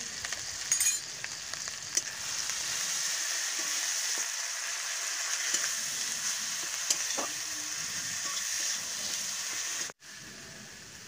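Spice paste, tomatoes and green chillies sizzling in hot oil in a metal kadai while a metal spatula stirs and scrapes the pan, with a steady hiss and scattered clicks. The sizzle drops quieter near the end.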